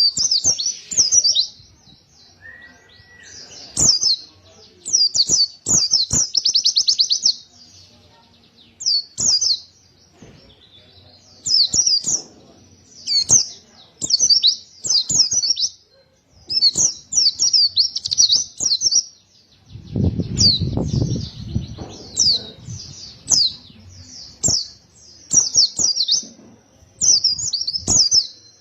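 White-eye (pleci) singing in bursts of rapid, high twittering phrases with short pauses between, including a fast trill about six seconds in. A low rumble comes about twenty seconds in.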